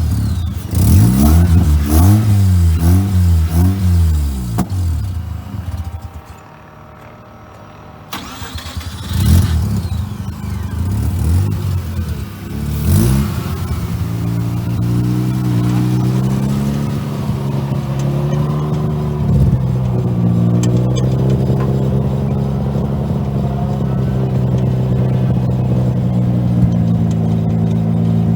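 Renesis two-rotor rotary engine being blipped repeatedly to keep it running as it struggles to idle; it drops away for a few seconds, comes back with more throttle blips, then settles into a steady idle about halfway through.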